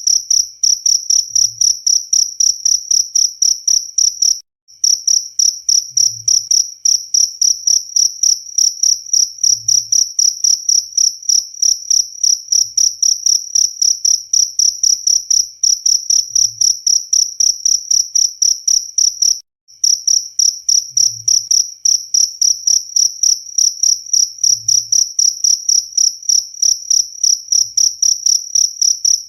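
Cricket chirping loudly in a fast, even rhythm of high-pitched pulses, several a second. It cuts out for a moment twice.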